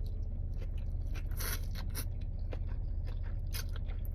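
A person chewing and crunching a mouthful of firecracker shrimp with red peppers close to the microphone. Short crisp crunches come at an uneven pace, one louder about a second and a half in, over a steady low hum.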